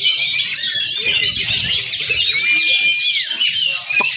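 Oriental magpie-robin (kacer) singing a continuous, varied song of rapid chirps and trills, with a long held whistle in the second half.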